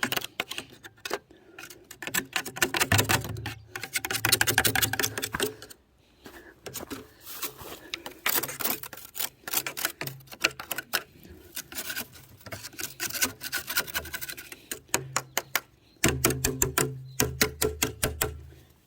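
Knife blade scraping built-up ash and soot off a stovepipe section in quick, rapid strokes, in several spells with short pauses between them.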